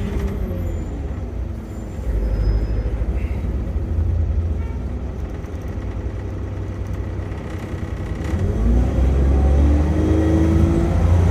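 Road traffic: motor vehicle engines running with a steady low rumble, one engine rising in pitch about eight seconds in.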